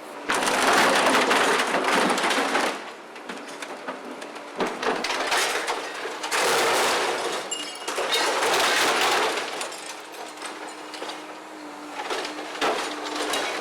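Heavy demolition machinery cutting into an airliner's aluminium wing: several loud bursts of tearing, grinding metal, each lasting one to three seconds, over the steady hum of the machine.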